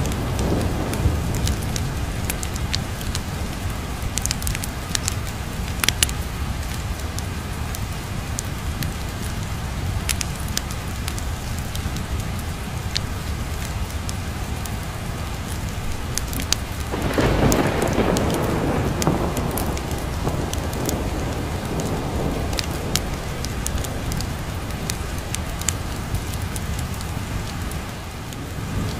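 Steady heavy rain with a continuous low rumble of thunder; a louder thunder roll swells about two-thirds of the way through and dies away over a few seconds. A few sharp crackles stand out over the rain.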